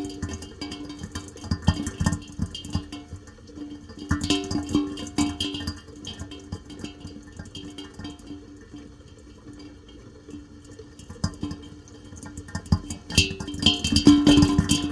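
Plucked guitar music, quieter in the middle and growing louder again near the end.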